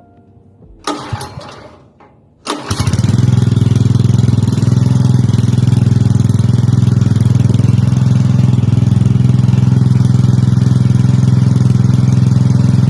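Motor-driven water pump being started: two short starting attempts about a second in and again just before it catches, then the motor runs steadily and loudly.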